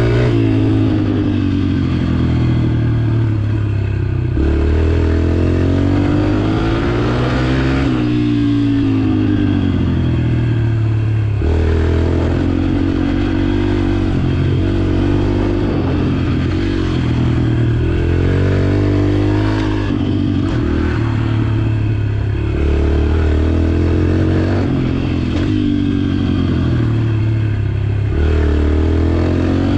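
Dirt bike engine held in one gear, revving up and easing off over and over as the bike circles, its pitch rising and falling every three to four seconds.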